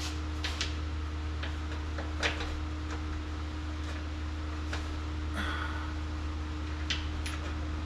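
Scattered light clicks and knocks of tools and exhaust hardware being handled while fitting stainless exhaust pipes, a few seconds apart, over a steady low hum.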